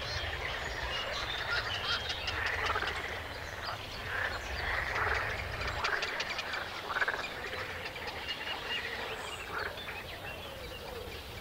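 A chorus of frogs croaking, many calls overlapping, with quick clicking notes mixed in.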